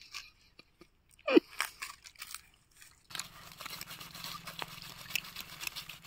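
Ripe jackfruit being eaten: crunching and chewing of the fleshy pods, with some tearing, broken by one brief voice-like sound about a second in.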